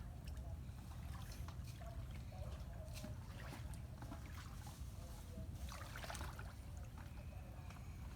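Water splashing and trickling around a small boat or shallow water, with short louder splashes about three and six seconds in, over a steady low rumble.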